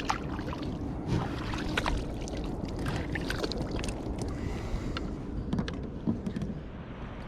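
Water splashing and lapping around a kayak, with many small sharp clicks and knocks of handling on board.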